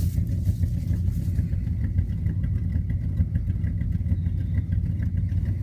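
Old Chevy pickup engine idling steadily after a cold start, a low, even rumble.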